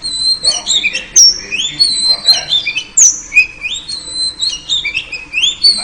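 Oriental magpie-robin (kacer) singing a rapid run of varied clear whistles, slurred glides and chattering notes, broken by sharp loud squawks about one and three seconds in. It is the female kacer's call used to provoke males into full song.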